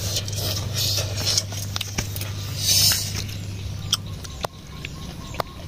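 Close-up eating sounds of someone chewing grilled pork intestine: scattered sharp mouth clicks and smacks over a low hum that fades out about four seconds in.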